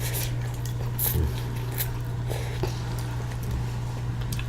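Close-miked eating sounds while eating wonton soup: chewing, with a few short wet mouth clicks spread through, over a steady low hum.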